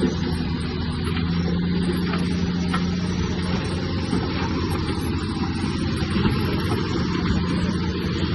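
Heavy diesel engine of earthmoving machinery running steadily, a continuous low drone.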